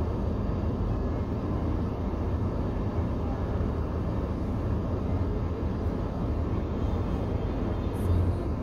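Car idling at a standstill, heard from inside the cabin as a steady low rumble.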